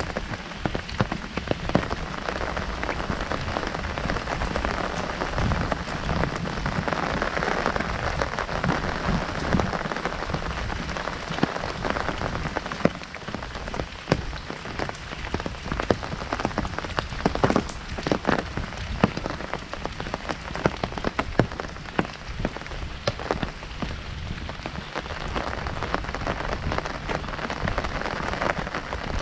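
Heavy rain drumming on an open umbrella, a steady patter with many sharp individual drops striking the canopy.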